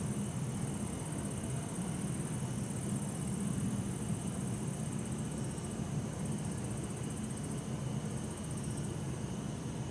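Night city ambience: a steady low rumble of distant traffic under the high, rapidly pulsing trill of bell crickets.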